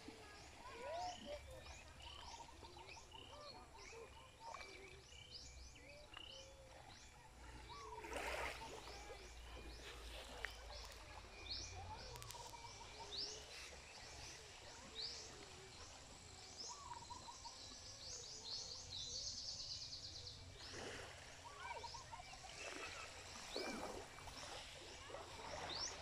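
Several birds chirping and calling in coastal trees: many quick high chirps with scattered lower whistled notes and short trills. A faint low wind rumble runs underneath.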